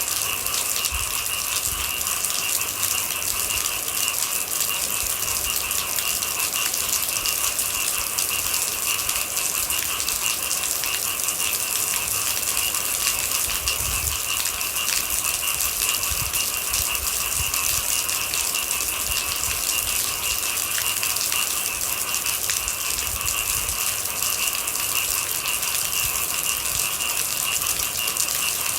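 Steady rain falling, with a continuous high-pitched chorus of night animals over it.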